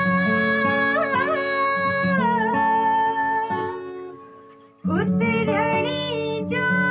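A woman sings a song in long held notes over acoustic guitar. About four seconds in, the phrase fades away, and a new phrase starts with voice and guitar together about a second later.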